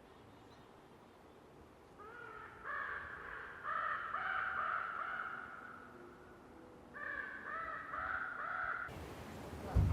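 A bird calling in two bouts of short, repeated calls, then a single low thump near the end.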